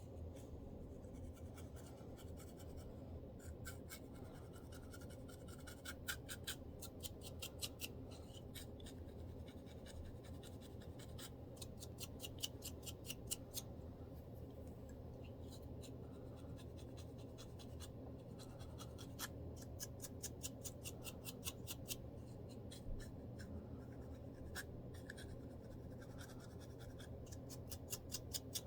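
Dandruff being scratched from a scalp through the hair, close to the microphone: bursts of quick, fine scraping strokes with pauses between them, over a low steady hum.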